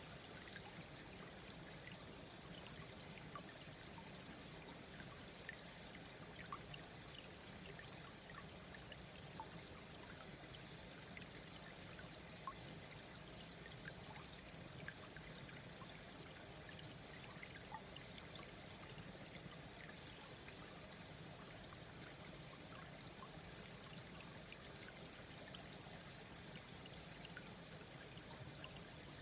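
A small brook flowing gently: a faint, steady babble of water with scattered small plinks of trickling water.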